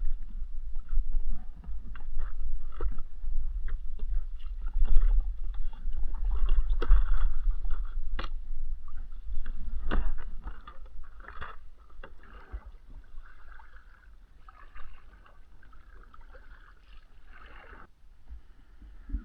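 A kayak on open water: irregular knocks and splashes of paddle and hull over a low rumble, growing quieter about two-thirds of the way through.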